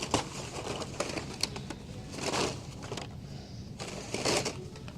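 Packaged toy cars being handled and sorted by hand: scattered sharp plastic clicks and clacks, with two longer rustles about two and four seconds in.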